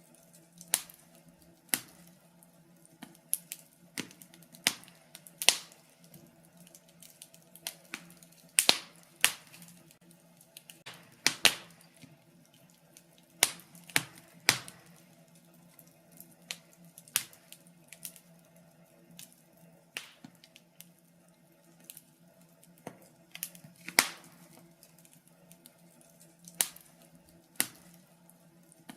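Fire in a fireplace crackling, with sharp pops and snaps at irregular intervals, a few seconds apart, over a faint steady hum.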